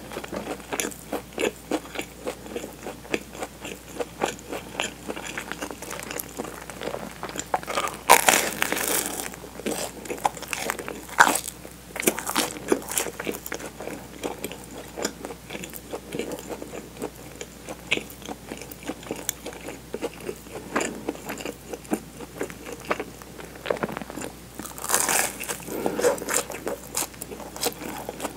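Close-miked chewing and crunching of toasted sandwich bread filled with melted mozzarella, many small crisp clicks, with two louder crunchy spells, about eight seconds in and near the end.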